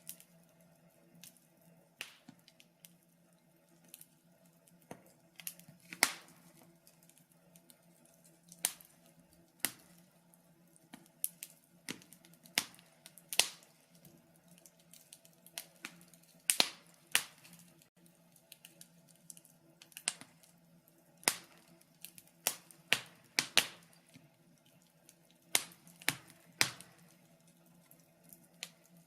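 Wood fire burning in a fireplace, crackling with irregular sharp pops and snaps, several louder ones scattered throughout, over a faint steady low hum.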